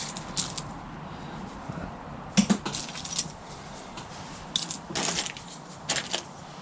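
Small pieces of dug-up metal junk, such as keys, pull tabs and coins, clinking and clattering as they are picked through and dropped, in a handful of separate sharp clicks.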